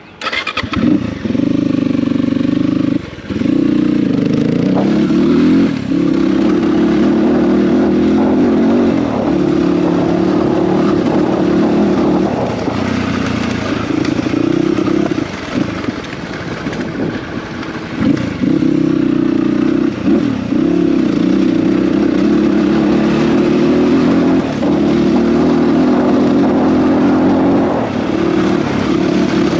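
Dirt bike engine running hard under throttle, with the throttle closed and reopened several times so the engine note dips briefly and picks back up.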